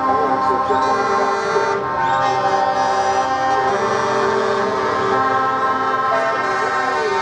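Truck air horns sounding together in long held blasts, several pitches layered over one another, with music underneath.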